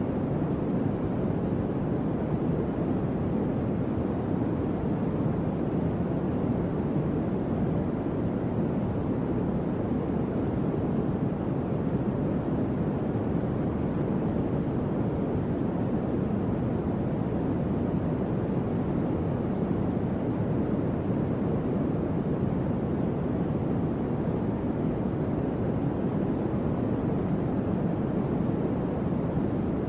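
Electric fan running steadily: an even, unbroken rush of air, deep rather than hissy, with no hum or rattle.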